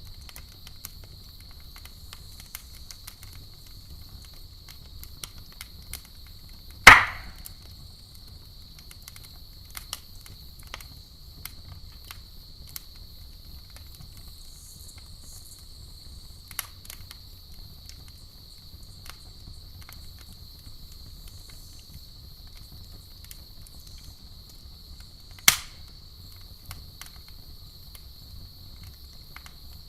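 Campfire burning, with a steady scatter of small crackles and two loud wood pops, one about seven seconds in and one later on. A steady high cricket chirring runs underneath.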